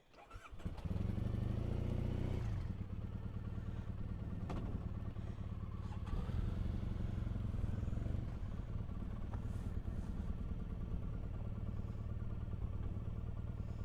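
Triumph Bonneville's parallel-twin motorcycle engine starting up about a second in, then running steadily.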